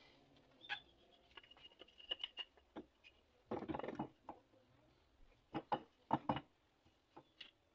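Faint scattered clicks and knocks, with a short scraping rustle about three and a half seconds in and a few sharper knocks a couple of seconds later.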